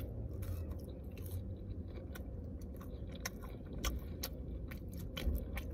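A person chewing a mouthful of fast food, with many short, sharp wet mouth clicks, over a steady low hum.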